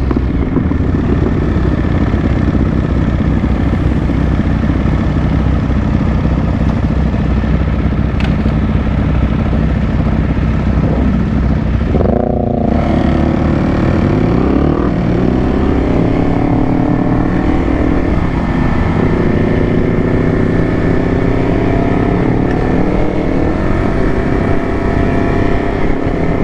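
Motorcycle engine running under way on a ride, steady at first. About halfway through there is a brief break in the sound, then the pitch climbs over a few seconds as the bike accelerates.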